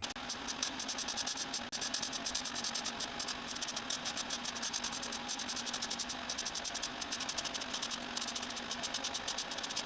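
Welding arc crackling steadily, a dense run of fine irregular ticks over a hiss, as body beads are welded.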